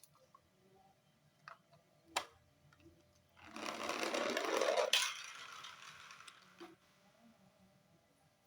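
A few light clicks of miniature model toy vehicles being handled, then a brief mechanical whirring rattle lasting about a second and a half, cut off by a click.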